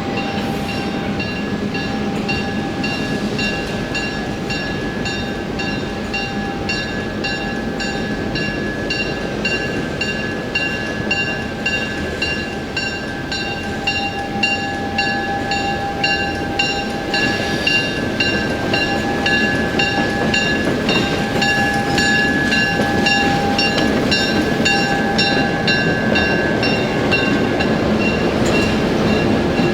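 Excursion train running on the track, with an evenly repeating metallic ring, about one and a half strokes a second, and a steady high tone over the running noise. It grows a little louder toward the end.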